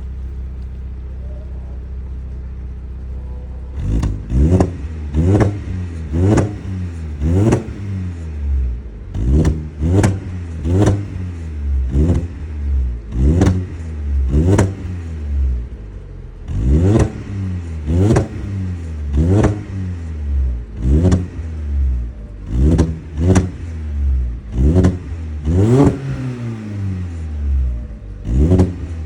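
Lada Granta Sport's four-cylinder engine through an aftermarket exhaust with a 4-2-1 header, resonator and muffler: idling for about four seconds, then revved in short sharp blips about once a second, each rising and falling quickly.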